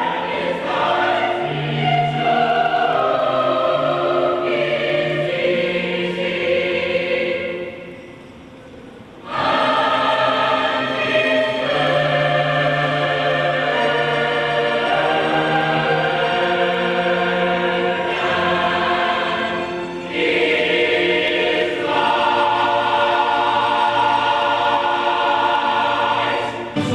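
Choir singing with accompaniment, slow sustained chords, with a brief soft pause about eight seconds in.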